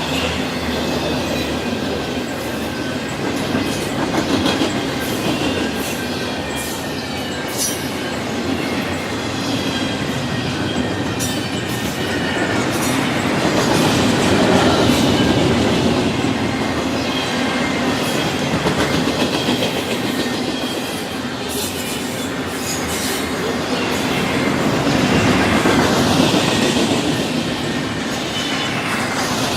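Intermodal container cars of a Canadian Pacific freight train rolling past at close range: a continuous rumble of wheels on rail with clicking over the joints and a faint high wheel squeal. The sound swells twice, about halfway through and again near the end.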